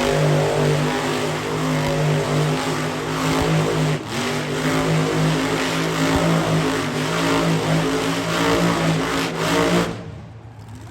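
Monster truck engine running loud and revving, its pitch rising and falling; the sound drops away abruptly near the end.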